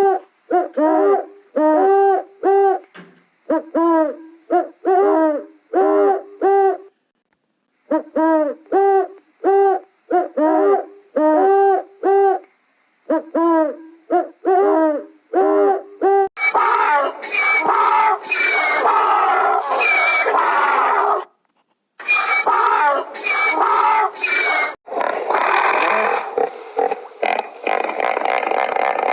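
An animal giving short hooting calls over and over in quick runs, with brief pauses between the runs. About halfway through, this gives way to a louder, rougher stretch of mixed animal noise with abrupt cuts.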